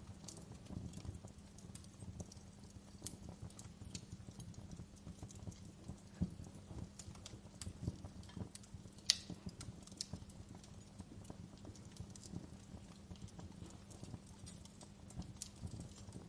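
Wood fire burning in a fireplace, crackling with irregular small pops over a low steady rumble. One sharper, louder pop about nine seconds in.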